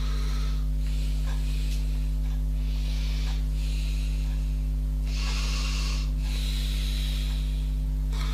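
A steady low electrical hum, with soft hissing noises every second or two.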